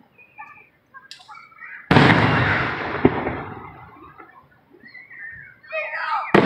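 Aerial fireworks: a shell bursts with a sudden loud boom about two seconds in that rolls and fades over a couple of seconds, with a sharper crack a second later, and another sharp bang right at the end.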